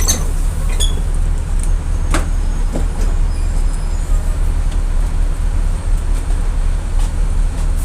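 Volksbus 17.230 EOD bus engine running steadily with a low, even drone, with a few short rattles near the start and about two seconds in.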